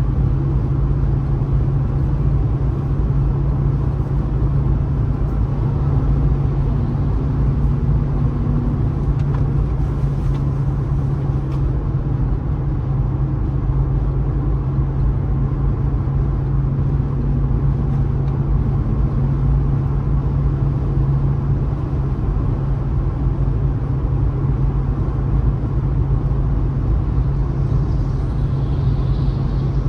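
Car driving at a steady highway speed: a constant low rumble of tyre, road and engine noise that holds level throughout.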